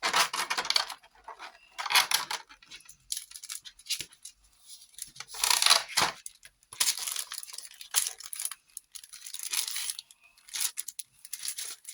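Packaging of a boxed airbrush kit being torn open by hand: a series of tearing and rustling bursts, each about a second long, with short pauses between.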